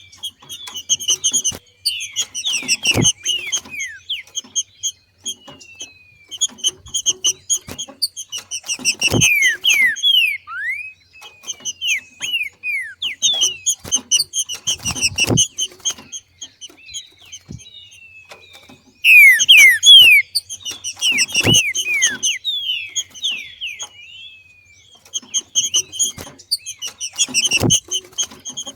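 Female green-winged saltator (trinca-ferro) giving its rapid chattering 'macheando' call in bouts of a few seconds, each a fast run of short falling notes, with brief pauses between bouts. A few low thuds come roughly every six seconds.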